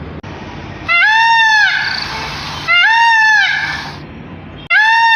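Peacock calling three times, about two seconds apart; each loud call rises and then falls in pitch.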